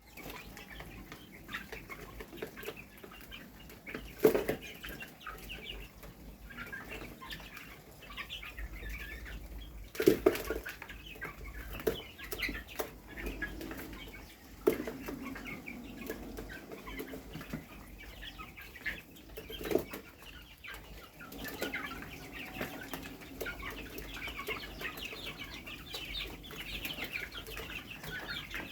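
Fayoumi chickens clucking and chattering continuously, with four sudden loud bursts of noise spread through it.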